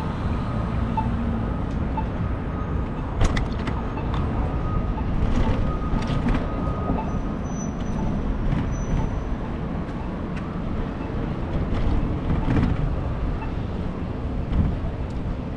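Steady low rumble of a bicycle ride along city streets amid traffic, with a few sharp clicks or rattles scattered through it.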